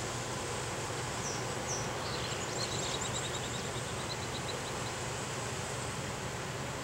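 Steady outdoor background noise with a constant low hum. Over it a small bird gives two short high chirps, then a fast trill of repeated ticks from about two to five seconds in.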